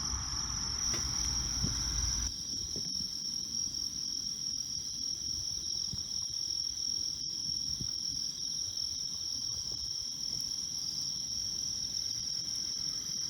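Crickets or other insects chirring in one steady, high, continuous tone. A low rumble underneath stops abruptly about two seconds in.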